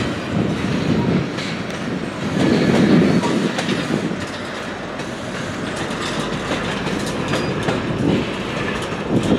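Freight train's tank cars rolling past: a steady rumble with steel wheels clicking over the rail joints, swelling about two and a half seconds in and again near the end.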